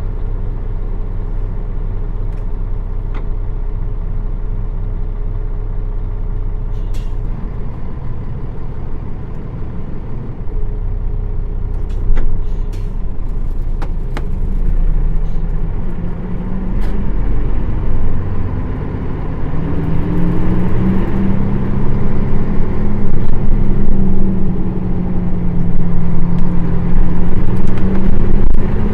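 Nissan Diesel KL-UA452KAN bus's PF6 diesel engine idling steadily, with a few sharp clicks, the loudest about twelve seconds in. Later the engine pitch rises and wavers as the bus pulls away and speeds up, growing louder toward the end.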